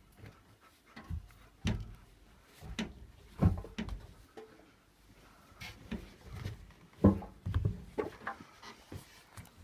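Irregular knocks and clunks of things being handled, with a couple of sharper knocks about three and a half and seven seconds in.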